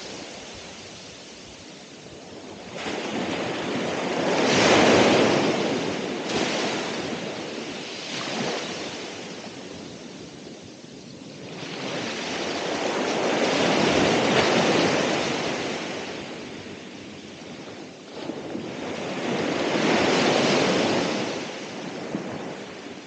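Ocean waves breaking on the shore: the surf swells up loudly three times and washes back quieter in between.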